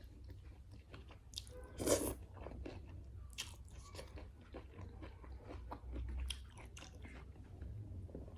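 A person chewing and crunching food close to the microphone: irregular crisp crunches and wet mouth clicks, the loudest about two seconds in.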